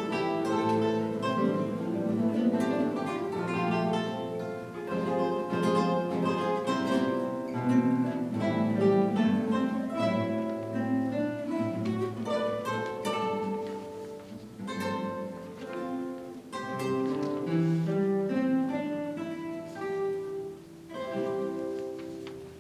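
Ensemble of classical guitars playing together, plucked melody over strummed chords, growing softer in the last few seconds as the piece closes on a final chord.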